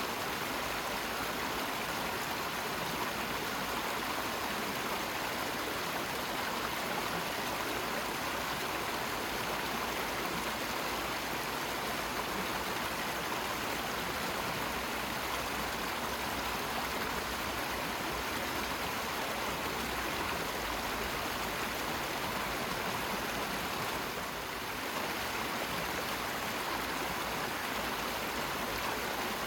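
Steady rush of running water, like a stream or small waterfall, an even hiss with no breaks, briefly a little softer about three-quarters of the way through.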